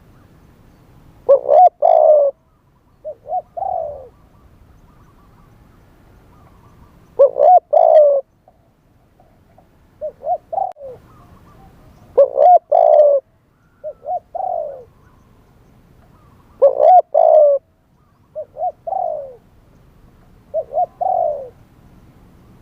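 Spotted dove cooing: short phrases of two or three low, burry coos repeated every few seconds, the louder phrases alternating with softer ones.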